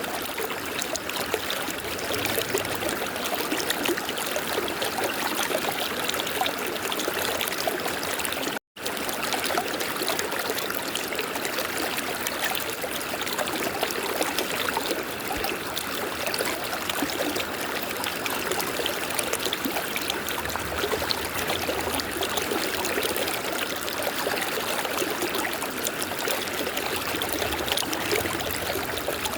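A river flowing steadily with a continuous rush and trickle of water. The sound drops out briefly to silence about nine seconds in.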